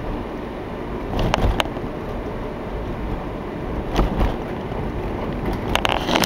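A car driving, a steady rumble of engine and road noise, with a few sharp knocks and rattles, about three clusters spread through.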